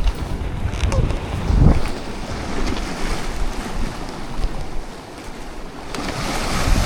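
Wind buffeting the microphone with sea waves washing against the rocks, a gusty low rumble that peaks about one and a half seconds in.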